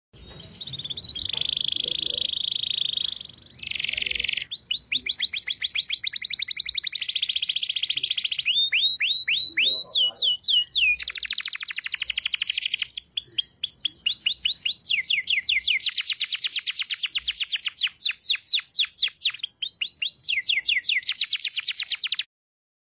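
Songbird singing in long, fast trills of rapidly repeated high sweeping whistles, with short pauses between phrases; the song cuts off abruptly near the end.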